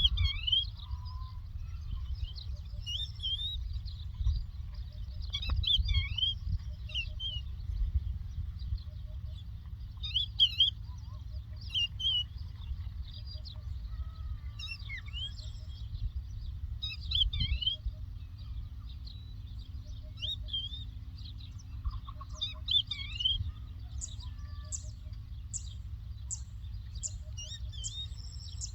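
A lark singing: short bursts of high twittering chirps and quick rising-and-falling whistled notes, with a faster run of sharp high ticks near the end, over a steady low rumble.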